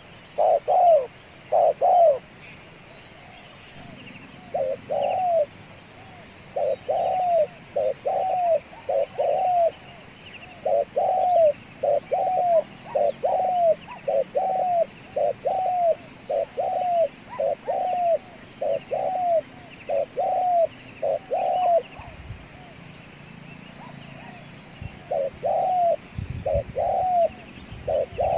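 Spotted dove (tekukur) cooing over and over in long runs of short, arched coos, about two a second, with a pause near the start and another a few seconds before the end. A steady high-pitched hiss runs underneath.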